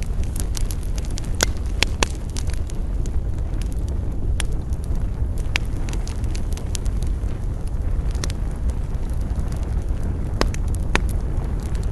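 Wood campfire crackling, with irregular sharp pops scattered over a steady low rumble of fire and wind.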